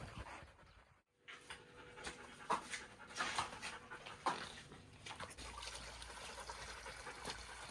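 A husky dog panting.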